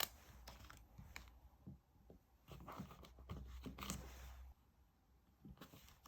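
Soft handling of paper and stickers during diary decorating: faint scattered taps and small clicks, with a longer stretch of paper rustling about midway.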